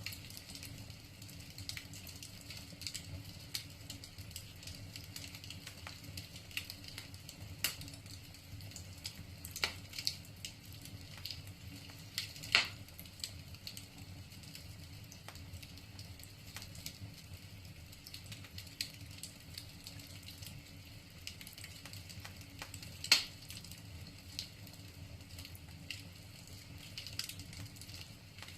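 Wood fire crackling in a fireplace: a steady run of small irregular pops and snaps from the burning logs, with two much louder snaps, one near the middle and one about two-thirds of the way through.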